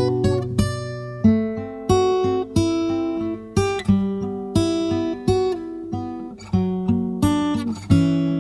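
Intro music: acoustic guitar playing a melody with strummed chords, notes plucked about every half second and ringing out.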